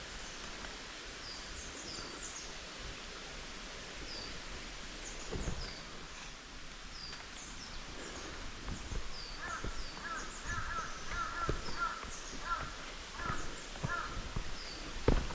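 Wild birds calling: short, high, falling chirps repeat throughout, and from about ten seconds in a second bird gives a rapid string of lower repeated calls. A few low thumps come through, the loudest near the end.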